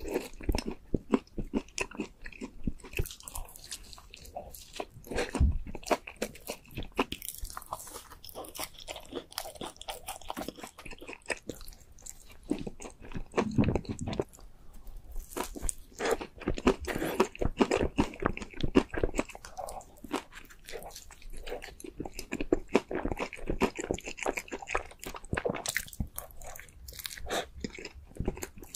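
Close-miked eating of donuts: repeated bites and steady chewing and mouth sounds, with crunching from the nut and crumble toppings.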